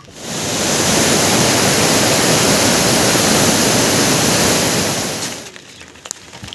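Loud, steady rush of water that starts abruptly and fades out about five seconds in.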